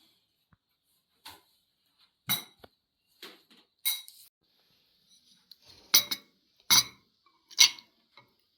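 Metal cutlery clinking against dishes in a series of separate sharp clinks, the three loudest coming about a second apart near the end.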